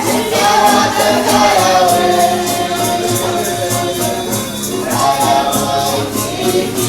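Group singing a chant over a steady shaken-percussion beat, about three shakes a second, as music for a ceremonial circle dance.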